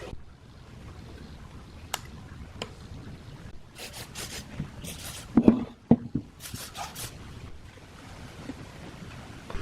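Workshop handling noises: a couple of sharp clicks, then several short scraping or brushing strokes and two heavy knocks about halfway through.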